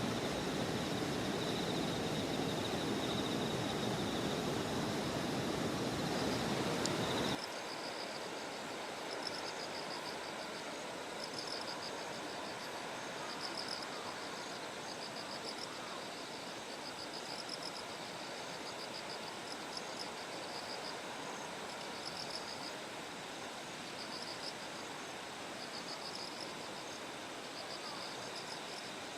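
A steady, loud rushing noise for about the first seven seconds, then a sudden cut to quieter field sound. In the second part, bell crickets repeat short, high pulsed trills about once a second over a faint hiss.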